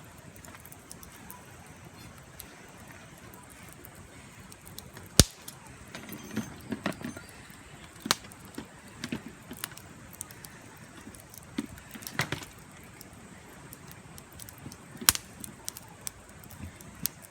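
Campfire crackling: burning firewood giving scattered sharp pops and snaps at irregular intervals, the loudest about five seconds in.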